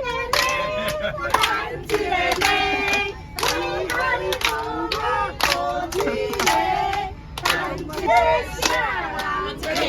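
A woman singing, with sharp hand claps at a rough beat.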